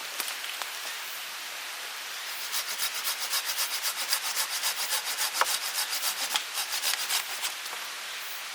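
Hand saw cutting wood in quick, even back-and-forth strokes, about four or five a second. The sawing starts a couple of seconds in and stops near the end.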